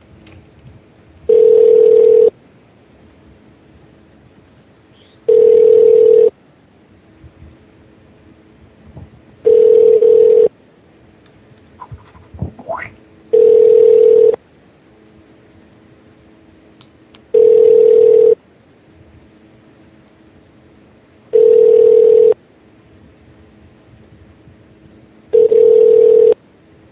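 Telephone ringback tone heard over the phone line: seven even rings, about a second each, one every four seconds, while the called number rings unanswered.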